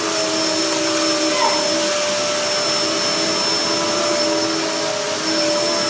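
Hoover Dust Manager DM4523 2000-watt upright vacuum cleaner running steadily: a rush of air with a steady high whine from the motor.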